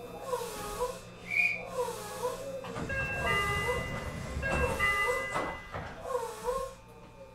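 Sound aboard a Meitetsu 9500 series electric train: a warbling electronic tone repeats about twice a second, while the train's running rumble and motor whine swell up in the middle.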